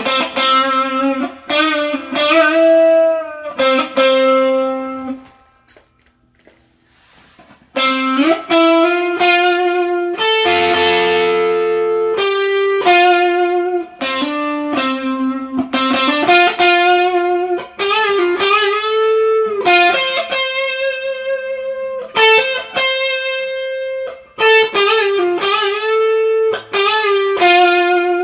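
Electric guitar (Kiesel Vader on its neck pickup) played through a Bluesbreaker-style overdrive pedal: melodic single-note lines with string bends and vibrato. The playing stops briefly about five seconds in, and a strummed chord rings out around ten seconds.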